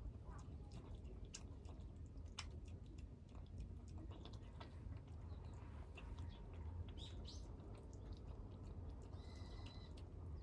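Kittens eating, with scattered short chewing clicks over a low steady hum, and a few brief bird chirps in the second half.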